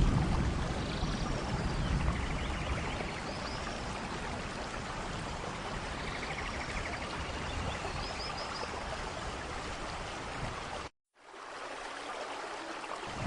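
Steady rain in a rainforest thunderstorm, with a low thunder rumble easing off in the first couple of seconds and faint high chirps scattered through. The sound cuts out for a moment near the end, then the rain resumes with less rumble.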